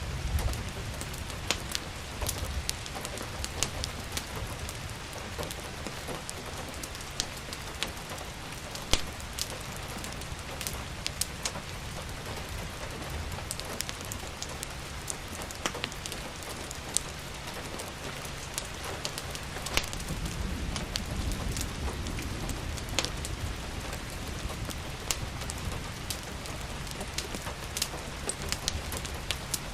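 Steady rain with the crackle of a wood fire, sharp pops and snaps scattered irregularly through it. A low rumble swells briefly about twenty seconds in.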